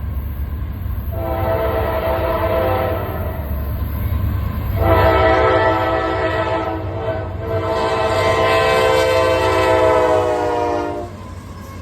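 Diesel locomotive's multi-chime air horn sounding repeated blasts, with the longest ending about eleven seconds in, over the low rumble of the passing train.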